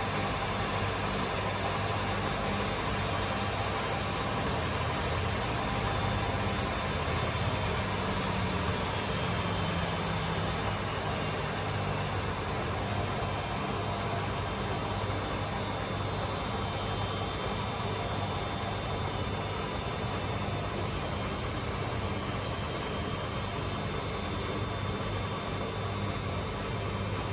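Two Hotpoint Aquarius washing machines (WMA37 and WMA48) running together in a long spin cycle: a steady drum-and-motor whirr with a low hum. A faint high whine falls slowly in pitch in the first half.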